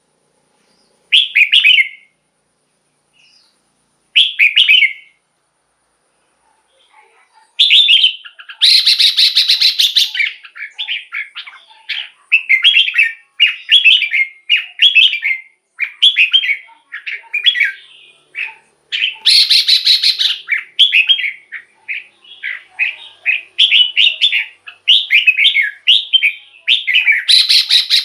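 Red-whiskered bulbul singing loudly: two short chirped phrases with pauses between them, then from about seven seconds in a fast, almost unbroken run of chirping phrases broken by harsh buzzy notes.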